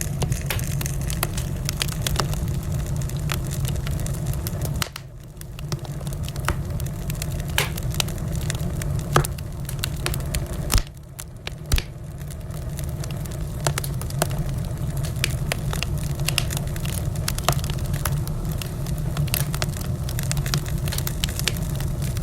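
Wood fire in a fireplace crackling, with frequent sharp pops over a steady low rumble. The rumble drops away briefly twice, and there are a couple of louder single pops around the middle.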